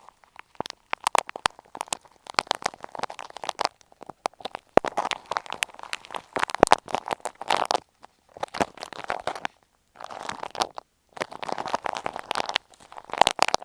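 Ear pick scratching and scraping against an earphone microphone, in irregular clusters of crackly strokes and clicks with short pauses between them.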